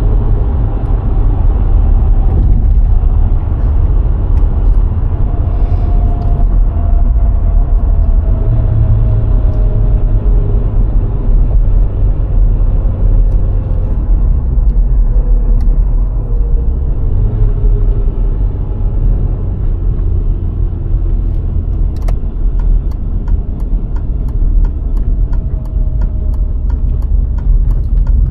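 VW Golf IV 1.6 driving on the road: steady low tyre and road rumble with the engine's hum, its pitch sliding slowly down and back up as the speed changes. A regular light ticking joins about two-thirds of the way in.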